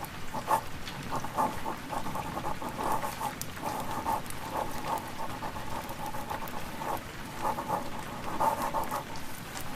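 Pen scratching on paper in short, irregular strokes, over a steady hiss of rain and the odd crackle of a fire.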